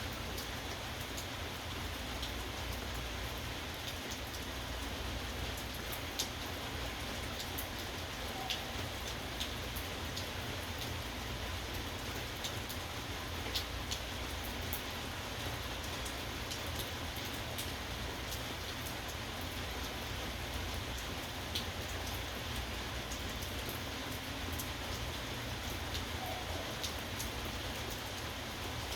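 Steady rain falling, with scattered drops ticking sharply on a nearby surface.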